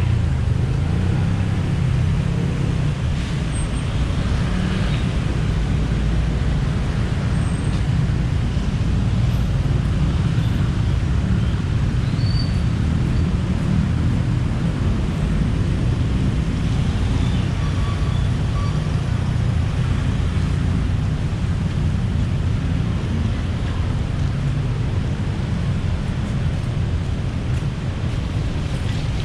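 Steady city road traffic: a continuous low rumble of passing cars and buses, with faint short tones here and there.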